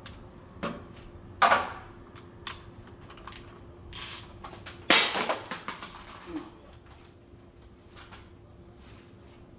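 Metal objects knocking and clinking: a few sharp clanks, the loudest about five seconds in, among lighter taps, over a faint steady hum.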